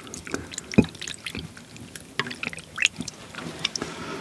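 Chopsticks stirring grated radish into the cold broth of a bowl of buckwheat soba, the broth sloshing and dripping with short clicks of the chopsticks, and one louder knock about a second in.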